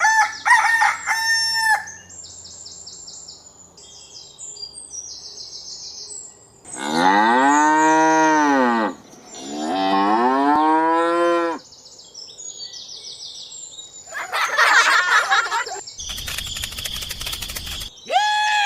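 Farm animal sounds: a cow mooing twice in long calls that rise and fall in pitch, with high bird chirps and fowl calls before and after.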